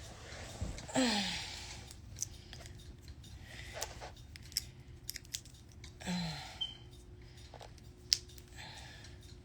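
Scattered light clicks and rustling of things being handled close to the microphone, with two brief falling tones, one about a second in and another about six seconds in.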